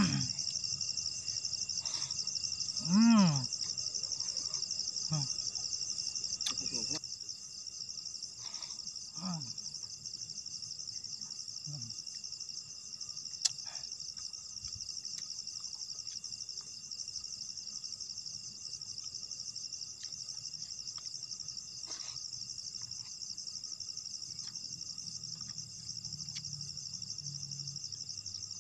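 Steady, high-pitched trilling chorus of forest insects, pulsing finely and without a break. A short pitched sound about three seconds in and a few faint clicks are heard over it.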